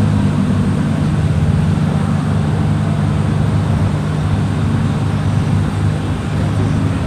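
A car engine idling steadily, a constant low hum with no revving.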